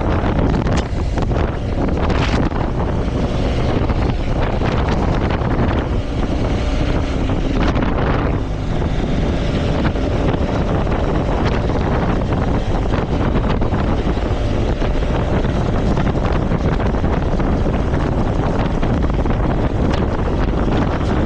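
Wind rushing steadily over the microphone of a moving motorcycle, with the bike running underneath it.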